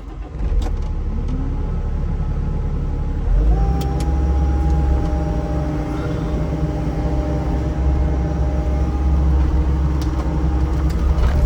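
A large engine running steadily, then throttled up about three and a half seconds in and held at the higher speed, with a heavy low rumble.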